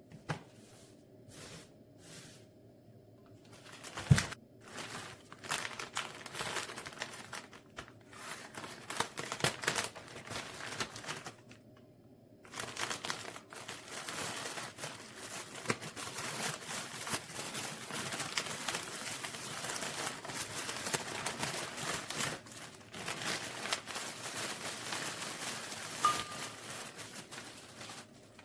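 Crinkling and rustling of something being handled, with scattered clicks and a sharp knock about four seconds in. From about halfway through the rustling runs on without a break, and a short high beep sounds near the end.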